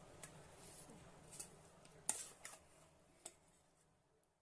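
A few faint, sharp clinks of a spoon against a dish, the loudest about two seconds in, over near silence that fades out near the end.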